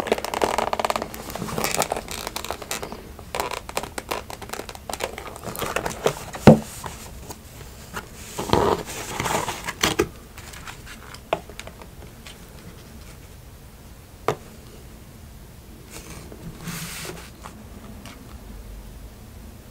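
Close-miked paper food wrapping crinkling and rustling as it is handled, with many small sharp crackles. The rustling is dense for the first half and then thins to scattered clicks.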